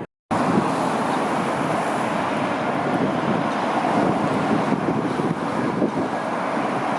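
Strong wind buffeting the microphone over the steady rush of a heavy jet airliner, with a faint high whine in the first seconds.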